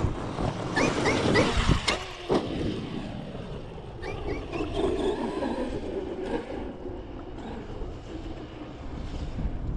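Large-scale RC monster truck driving on a dirt track. Its electric motor gives short rising whines as it is throttled, then a falling whine as it slows, with a couple of sharp knocks about two seconds in.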